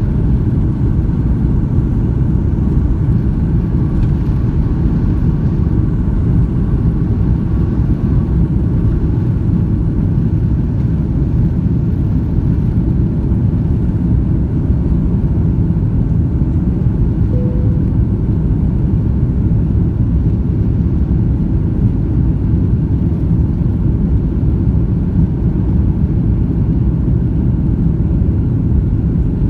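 Steady cabin rumble of an Airbus A330-300 airliner: engine and airflow noise heard from inside the passenger cabin, even and unchanging. A short faint tone sounds once, a little past halfway.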